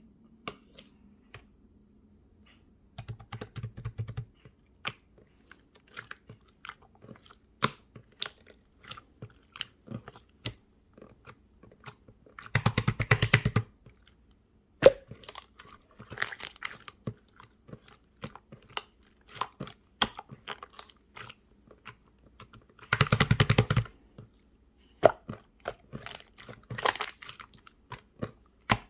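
Clear slime being squished and pressed by hand, giving irregular sticky clicks and small pops. Two bursts of rapid crackling come about 13 and 23 seconds in.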